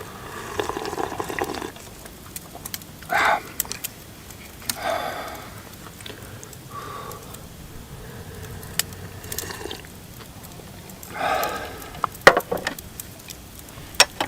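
Scattered small clicks and knocks with several short rustling or scraping sounds, as of objects being handled and set down.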